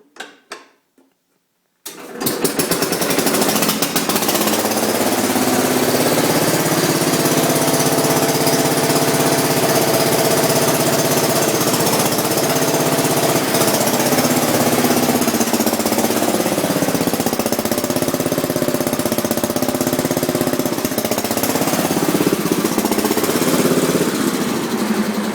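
1968 Allis-Chalmers B110 garden tractor engine starting about two seconds in, catching instantly, then running loud and steady, its speed shifting slightly now and then.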